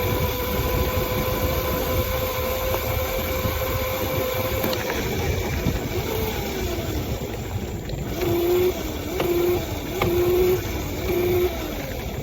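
Small motorbike's motor whining steadily while it is ridden, with low wind rumble on the microphone. About five seconds in the whine drops in pitch as it slows. Near the end it swells four times in short wavering pulses.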